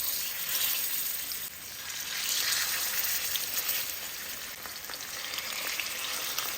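Seasoned chicken breasts frying in hot olive oil in a cast iron skillet: a steady sizzle that swells and eases a little.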